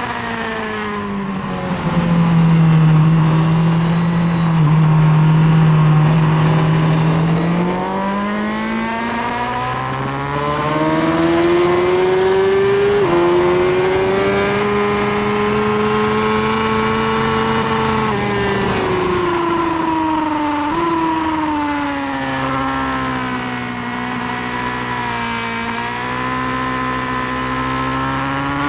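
Suzuki GSX-R1000R's inline-four engine heard from onboard at speed on a racetrack. The revs fall under braking and hold low through a corner, then climb and drop repeatedly as the bike accelerates and brakes through the gears, with sudden jumps in pitch at gear changes about 13 and 21 seconds in.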